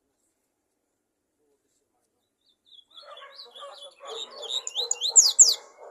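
Silence for the first two and a half seconds or so, then a songbird singing. Quick high chirps build up to a pair of loud, fast downward-sweeping notes near the end.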